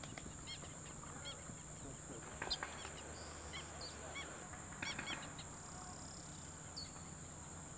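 Faint, short honking bird calls, about eight scattered through, over a steady high-pitched hiss.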